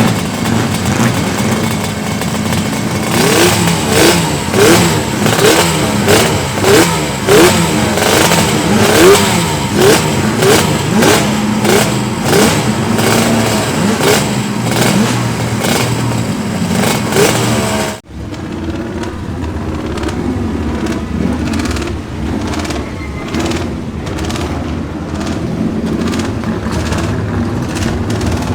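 Two-stroke racing motorcycle engine revved in quick repeated blips, each a short rising whine. About two-thirds of the way through the sound cuts abruptly to a quieter engine running more steadily.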